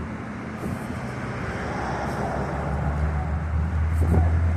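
Street traffic: a motor vehicle going past, its tyre and engine noise swelling slowly over a steady low hum.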